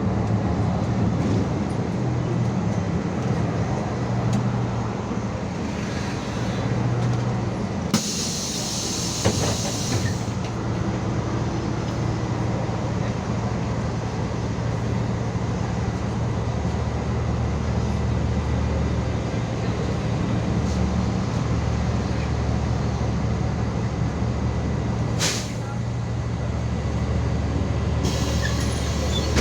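MAZ 216 bus's diesel engine running steadily, heard from on board. About eight seconds in there is a loud hiss of compressed air lasting about two seconds, and shorter air hisses come near the end.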